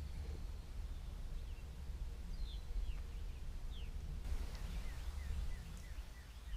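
Songbirds calling from the shore: a few short falling chirps, then a quick run of short repeated notes about four seconds in, over a low steady rumble of wind on the microphone.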